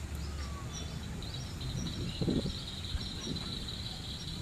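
Outdoor ambience of many birds chirping in short, high, repeated calls, with a steady high buzz joining about a second and a half in, over a low background rumble.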